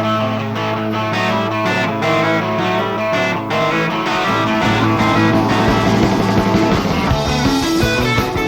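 Live rock band with electric guitars, bass guitar and drums playing an instrumental passage without vocals. A low bass note is held for about the first three and a half seconds, then the bass line starts moving under the guitars and drums.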